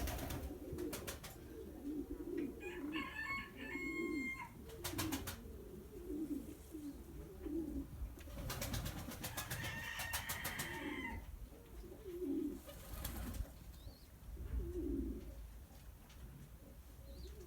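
Domestic pigeons cooing over and over, low rolling coos one after another. Several bursts of rapid clattering cut in, and two short higher-pitched calls sound a few seconds in and again about ten seconds in.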